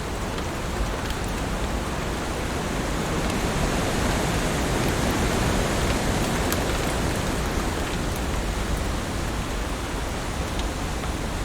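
Heavy rain falling steadily on leaves, a dense even hiss with a few sharper drop ticks. It swells slightly in the middle.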